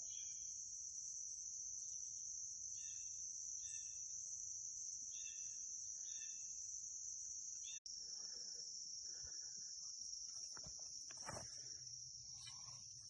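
Steady high-pitched insect chorus, with a bird calling in short repeated phrases over it through the first half. The sound cuts out for an instant about eight seconds in, and a few faint knocks follow.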